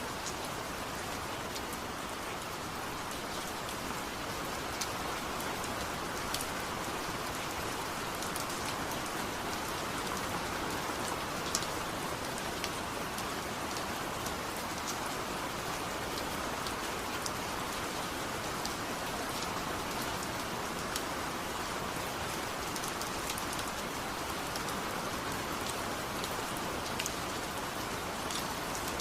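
Steady rain falling, an even hiss with occasional sharp ticks of single drops.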